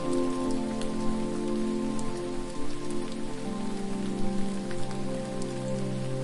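Steady hiss of falling water with scattered sharp drip-like ticks, under soft ambient music of long held low notes that shift every second or two.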